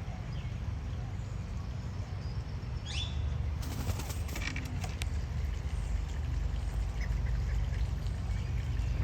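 A few faint, short bird calls, one a quick falling whistle about three seconds in, over a steady low rumble.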